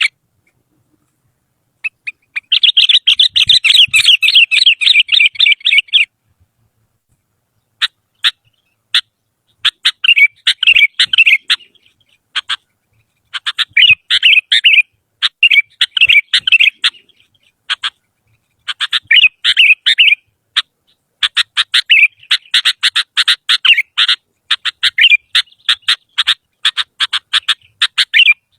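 Sooty-headed bulbul (kutilang) singing: rapid runs of chattering notes in bursts of a few seconds, broken by short pauses and a few single notes.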